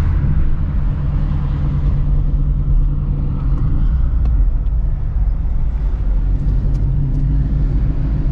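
Shelby GT350's 5.2-litre flat-plane-crank V8, fitted with long-tube headers, running steadily at low revs with a deep, even exhaust note and no revving.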